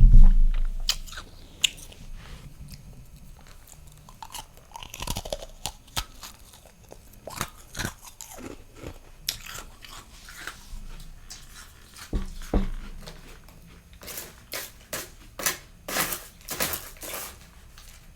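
Close-miked chewing and crunching of freezer frost in the mouth: scattered sharp crunches, a loud low thump at the very start, and a quick run of loud crunches near the end.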